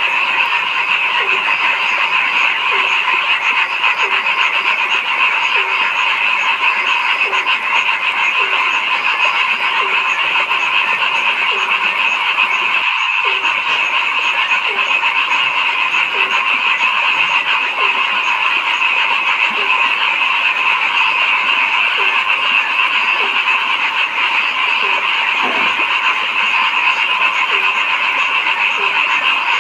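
Dense, steady night chorus of many frogs calling at once. Under it, a single lower croak repeats at an even pace, a little more than once a second.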